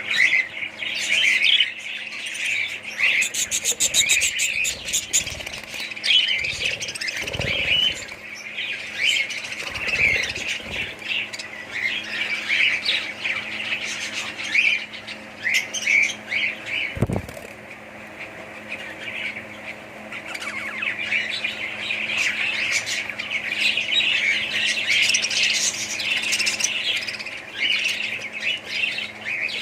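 A colony of budgerigars chattering, with many overlapping chirps and squawks. Under it runs a steady low hum, and a few dull thumps come in the first half and once just past the middle.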